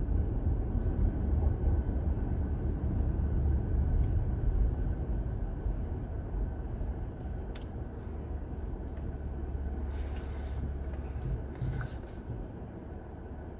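Steady low road and engine rumble heard from inside a moving car, with a few faint clicks and two brief hisses in the second half.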